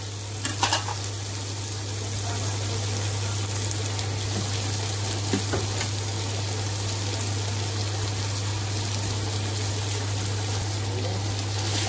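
Chicken pieces frying in ghee in a pot: a steady sizzle, over a constant low hum. There are a few light knocks about half a second in.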